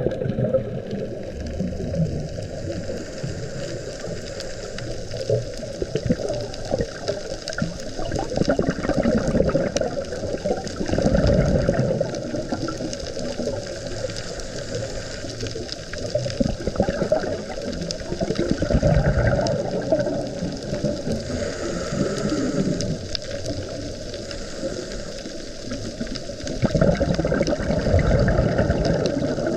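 Sea water rushing and sloshing around a camera held just under the surface, muffled, with heavier surges about every eight seconds.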